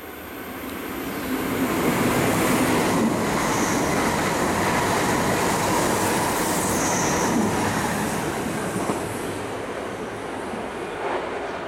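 E6 series Shinkansen train passing through a station at speed: the rush of wheels and running gear builds over the first two seconds, stays loud, then fades as the train recedes. Two brief high squeals come in along the way.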